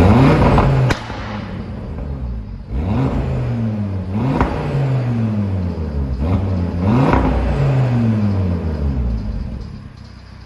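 Cupra Formentor VZ5's five-cylinder engine through a modified sports exhaust: it starts with a loud flare that drops back after about a second, then is blipped three times, each rev climbing quickly and sinking slowly back to idle.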